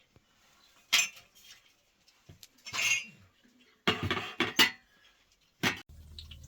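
Metal cookware and utensils clattering and clinking as they are handled, in several short bursts. A low steady hum starts near the end.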